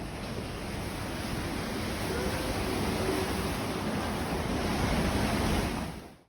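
Storm-force wind gusting over the microphone, a dense, loud rushing noise that swells a little before cutting off abruptly near the end.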